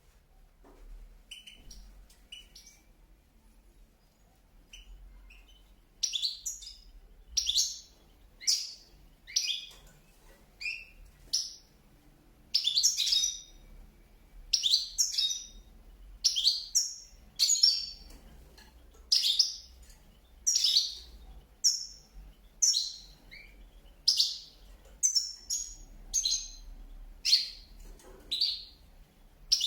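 Cage birds chirping: a few faint chirps at first, then from about six seconds in a run of loud, short, high calls, roughly one a second.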